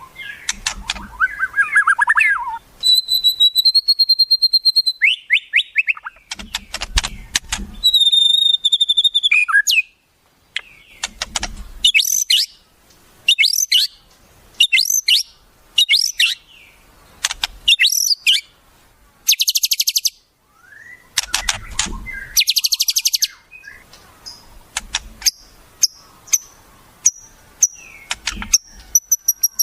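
Wild songbird calls in a varied sequence: clear held whistles, fast rattling trills and short, very high buzzy phrases, each a second or two long with short gaps between, and a few low thuds under some of them.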